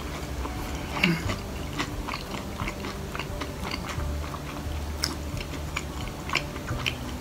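Close-miked chewing of a mouthful of fried chicken cutlet: a run of small wet mouth clicks and smacks, with a sharper click about a second in and another about five seconds in.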